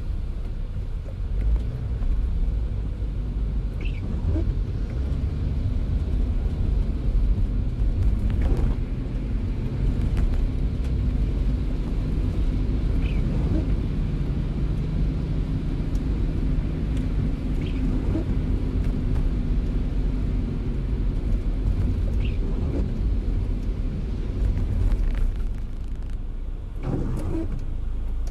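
A car driving in the rain: steady low road and engine rumble with a faint wash of rain, and a short faint tick every four or five seconds.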